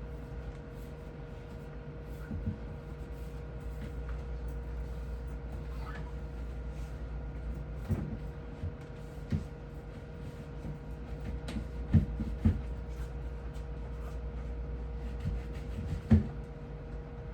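Scattered knocks and clunks of objects being handled and set down during refrigerator cleaning, over a steady electrical hum. The loudest knocks come about halfway through, twice close together, and again near the end.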